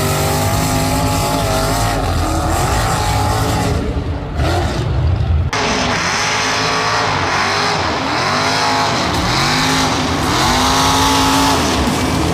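A mud-bog truck's engine revving hard, its pitch climbing and falling again and again. About five and a half seconds in, the sound changes abruptly to another stretch of revving.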